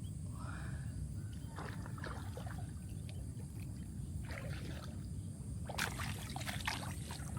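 Water splashing and sloshing in short irregular bursts, busier near the end, over a steady low rumble.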